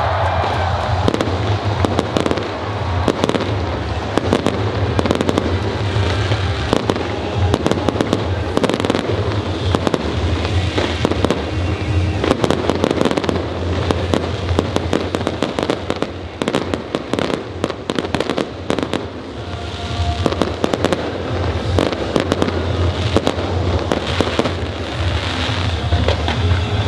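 A long, dense run of sharp cracks and pops, irregular and without a break, over a steady low hum.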